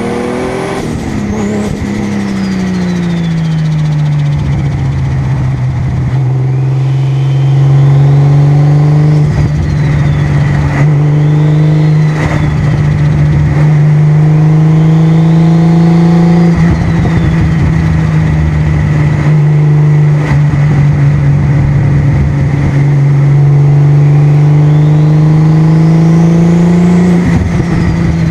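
Six-cylinder sports car engine cruising on the road. The revs drop in the first few seconds, then hold steady with small rises and falls, and a faint high whistle rises and falls every few seconds.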